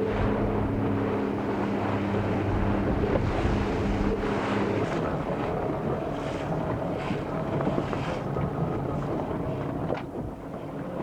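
Wind buffeting the microphone and water washing against a boat's hull on open water. A steady motor hum runs for the first few seconds and stops a little under halfway through. Splashes and gusts follow, with a single sharp knock near the end.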